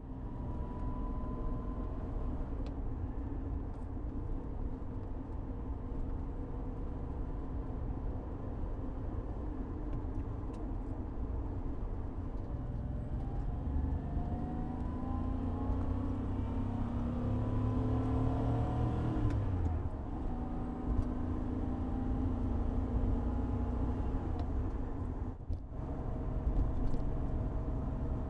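Porsche 911 Carrera 3.2's air-cooled flat-six heard from inside the cabin while driving. It runs steadily at first, then climbs in pitch through a long pull about halfway through and drops back, as at an upshift. Near the end there is a brief break in the sound, like another gear change.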